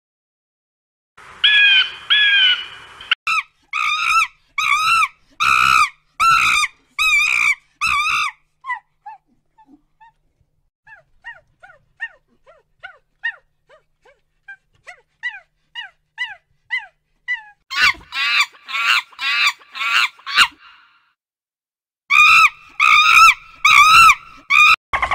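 Repeated high-pitched animal calls: loud runs of rising-and-falling cries, about two a second, then a quieter middle stretch of short falling chirps, before the loud cries return near the end.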